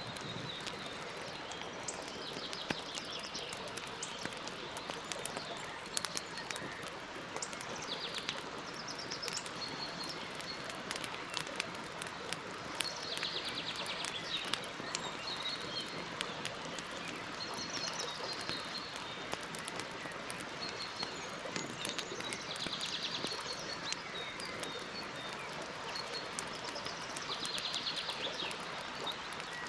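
Campfire crackling, with many small pops and snaps over a steady hiss, while birds sing; a short trilled song phrase comes back about every five seconds, with single chirps between.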